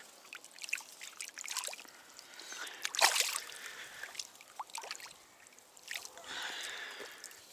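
Irregular water splashes and drips, the loudest splash about three seconds in, as small white bream are handled and let go back into the river.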